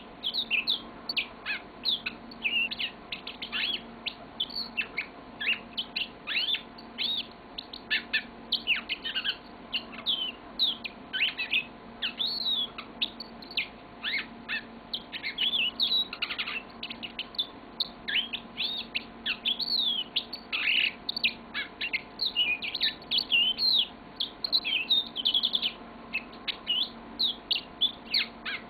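Yellow-fronted canary singing a long, unbroken song of quick, varied chirps and trills, starting abruptly right at the beginning.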